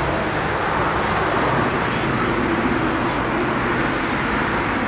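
Steady outdoor background noise with faint distant voices.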